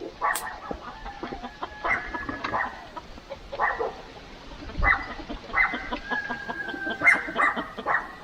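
Free-range chickens clucking and calling: a string of loud calls roughly a second apart, a few of them drawn out longer.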